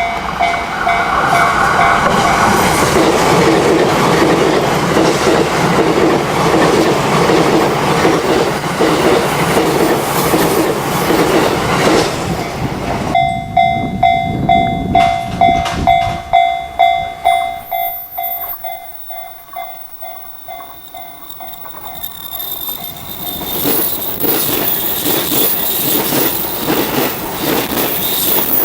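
A level-crossing warning bell dinging at an even pace, then an E353 series limited express electric train running past loudly. About halfway through the sound cuts to the crossing bell ringing again; it fades, and another train's running noise builds toward the end.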